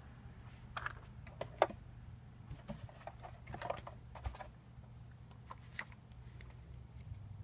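Scattered light clicks and taps of small hard parts of a replica lightsaber hilt being handled, the sharpest click about a second and a half in, over a steady low hum.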